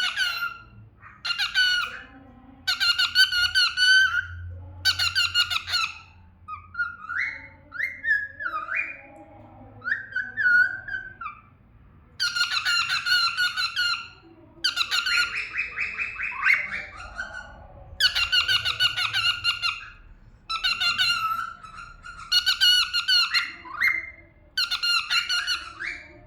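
Cockatiel singing: repeated bursts of chattering song, each about one to two seconds long with short gaps between them, and short gliding whistled notes a third of the way in and again near the end.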